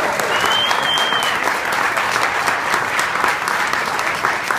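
Audience applauding steadily, with one high whistle of about a second near the start.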